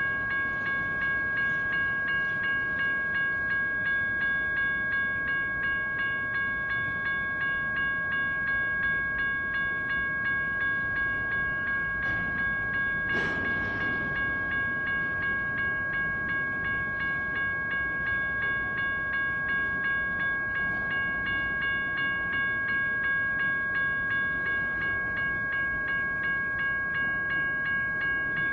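Grade-crossing electronic bell (General Signals Type 1) dinging steadily, about two strikes a second, over the rumble of a train on the crossing. A brief rush of noise rises about halfway through.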